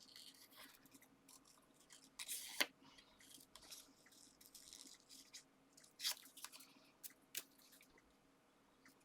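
Scissors snipping around a flower cut from thin patterned paper, with light paper rustling: scattered short snips, the loudest a little over two seconds in and about six seconds in.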